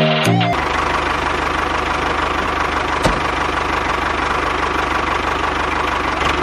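Small motor of a toy tractor running steadily, with one sharp knock about three seconds in.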